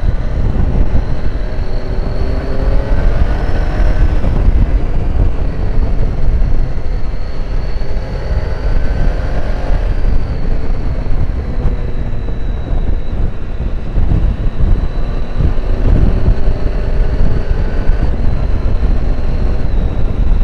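Triumph Tiger 800 inline-triple engine pulling under a rider, its note rising and cutting off several times as the bike accelerates through the gears, under heavy wind rumble on a helmet microphone.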